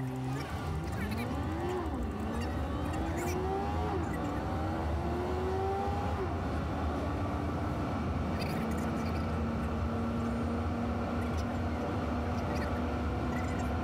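Car engine accelerating through the gears, its pitch climbing and dropping at two gear changes, then running steadily at cruising speed over steady road noise.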